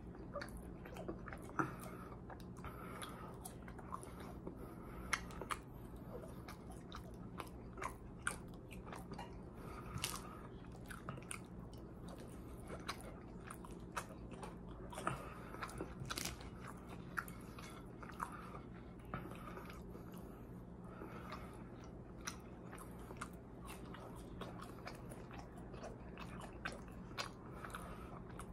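Close-up chewing and biting of French fries: a steady run of short mouth clicks and smacks through the whole stretch.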